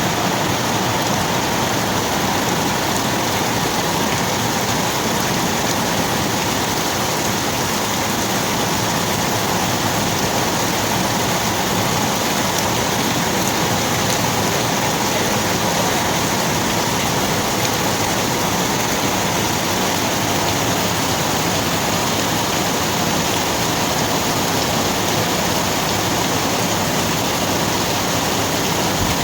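Steady rainfall, an even hiss of falling rain that holds at the same level throughout.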